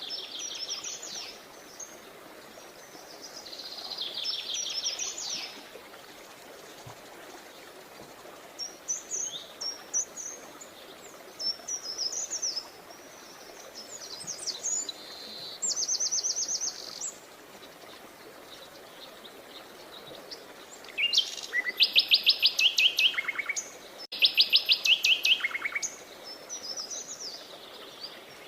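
Songbirds singing: a run of short chirps and trilled phrases over a steady background hiss. About three quarters of the way in, two loud, fast trills follow one another, each dropping lower in pitch toward its end.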